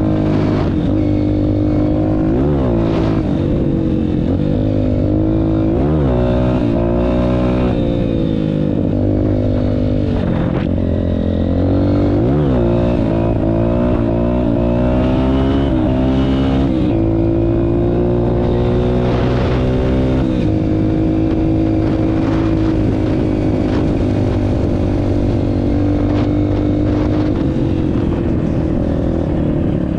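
Honda CRF230F's four-stroke single-cylinder engine running under load as the dirt bike is ridden. The engine pitch repeatedly rises and drops with quick blips of the throttle, then holds steadier for a stretch near the end.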